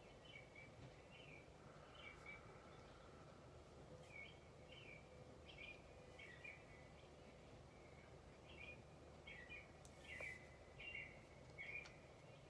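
Faint birdsong ambience: small birds chirping in short, quick notes again and again over a low steady background hum. A faint click comes about ten seconds in.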